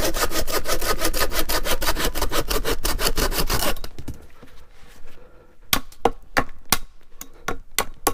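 Hand saw cutting through a log of dry firewood in quick, even back-and-forth strokes, stopping a little under four seconds in. Then a few separate sharp wooden knocks follow.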